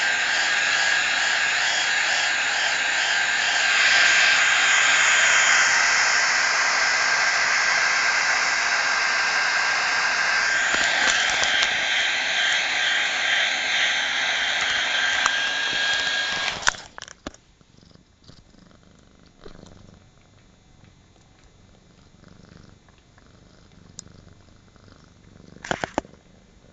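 A hair dryer blows with a steady whine and is switched off suddenly about two-thirds of the way through. Its stopping leaves a cat's soft purring, with a few sharp clicks near the end.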